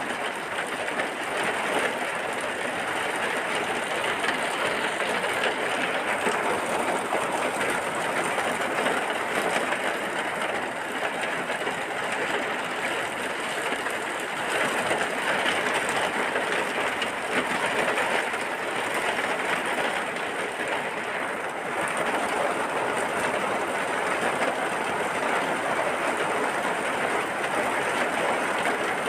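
Steady rain falling, an even hiss of drops with no pauses.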